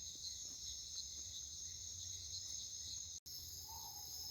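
Night insect chorus: crickets trilling steadily at a high pitch, with a faint low hum underneath. The sound cuts out for an instant about three seconds in.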